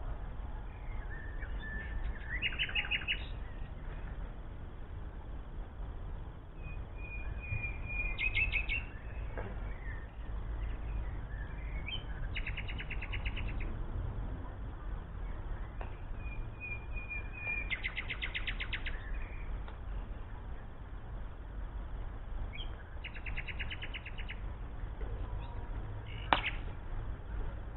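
A songbird singing the same short phrase five times, about every five seconds: a few clear notes leading into a fast trill. A steady low rumble runs underneath, and a single sharp click comes near the end.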